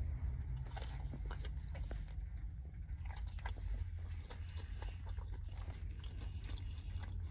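Close-up chewing and biting of cold, slightly hardened feta fries: soft crunches and wet mouth clicks scattered irregularly throughout, over a low steady hum.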